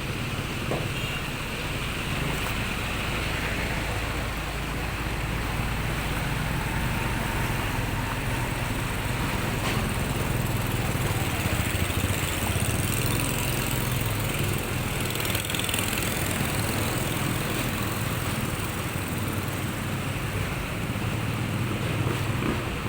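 A motor vehicle's engine running steadily, with a continuous hum under an even noise.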